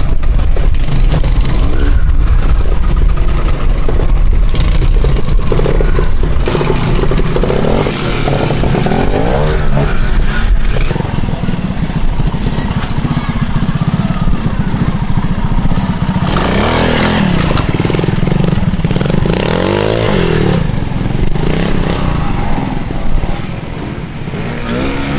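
Classic trial motorcycle engine revving up and down as the rider works the throttle, with its pitch rising and falling several times, most strongly in the second half.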